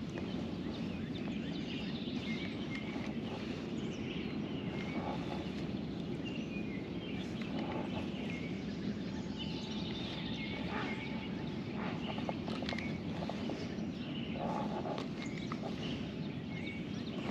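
Steady outdoor background noise with short, high bird chirps repeating every second or two.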